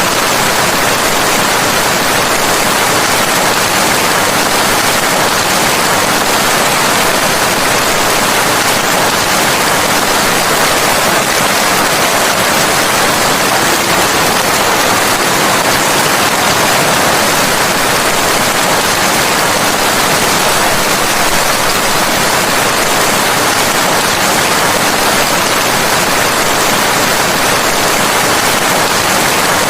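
Steady, loud rain, an even hiss with no distinct drops, thunder or changes.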